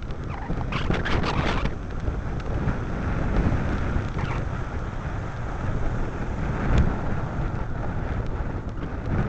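Wind rushing over the microphone of a camera carried on a moving bicycle: a steady low rumble, with a louder gusty stretch about a second in.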